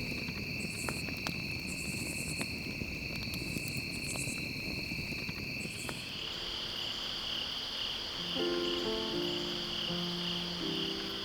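A night chorus of crickets and other insects: a steady high trill with rhythmic pulsing above it, and a few sharp clicks in the first half. About eight seconds in, background music with picked notes comes in over the insects.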